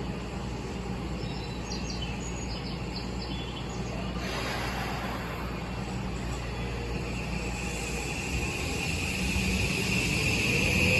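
Steady station background noise, then about two-thirds of the way in an electric train's VVVF traction inverter starts up with a steadily rising whine as the train begins to accelerate, growing louder toward the end. The train is an Odakyu 1000 series renewed car with a Mitsubishi full-SiC inverter.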